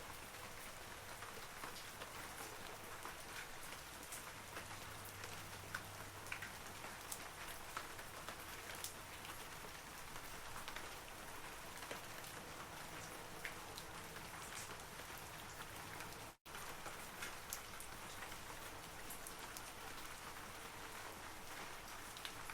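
Steady rain falling on forest trees, with many individual droplets pattering through a constant hiss. About sixteen seconds in, the sound cuts out for a split second.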